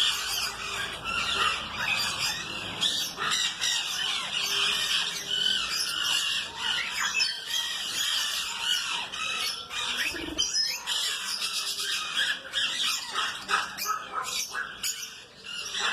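A colony of aviary birds calling all at once, a dense, continuous chatter of overlapping chirps and squawks.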